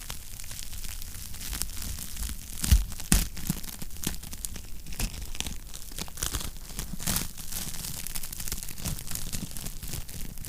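Wood fire crackling in a fireplace: a steady run of small crackles and pops over a low rumble, with two louder pops about three seconds in.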